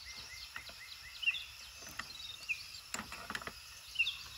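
Birds calling: a run of short chirps in the first second, then a short bright phrase repeated roughly every second. A few sharp knocks sound about three seconds in.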